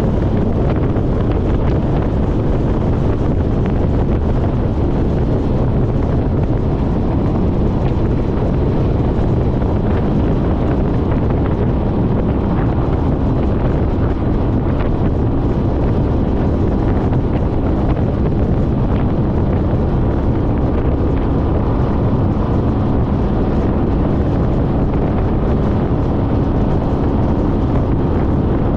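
Steady wind rush over the microphone of a moving motorcycle, with the 2014 Honda CTX1300's V4 engine running evenly underneath at cruising speed.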